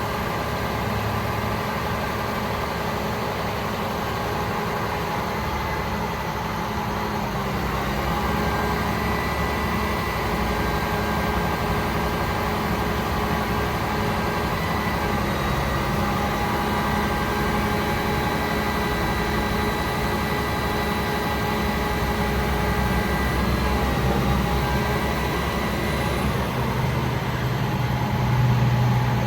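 Cummins L9 turbo-diesel of a Freightliner M2 truck idling steadily, with faint steady whining tones above the engine note. The low engine sound swells briefly near the end.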